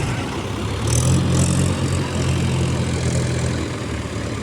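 Heavy diesel engine running and revving up about a second in, held, then easing back near the end, as machines try to pull a stuck tractor free. A short hiss comes at the moment the revs rise.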